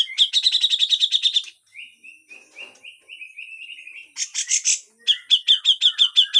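Cucak jenggot (brown-cheeked bulbul) giving harsh chattering calls. A fast rattle of repeated high notes is followed by a string of lower notes, two rasping bursts about four seconds in, and then another fast rattle.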